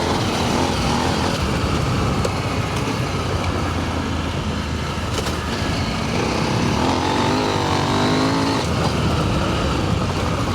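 Adventure motorcycle engine running under way on a dirt trail, its revs rising and falling as the rider rolls the throttle on and off.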